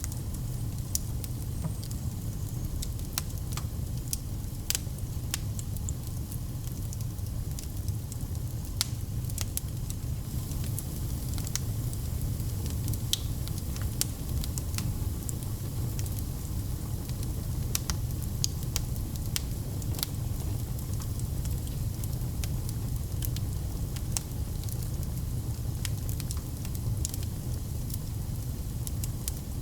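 Fire burning in a fireplace: a steady low rumble with frequent, irregular sharp crackles.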